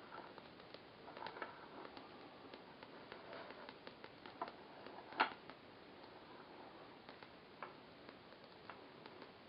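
Small home-built thermoacoustic (laminar flow) engine running, heard as faint, irregular light ticks and clicks over a low hiss, with one louder click about five seconds in.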